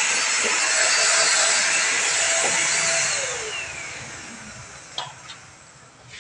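Agaro Real Plus 800 W handheld vacuum cleaner running at full speed. About three seconds in it is switched off, and the motor winds down with a falling whine. A couple of short clicks come near the end.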